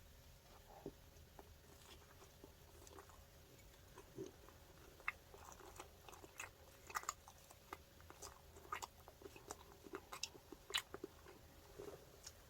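Close-up eating of a fried chicken burger: quiet chewing with many short, crisp crunches and mouth clicks, coming thick and fast in the second half.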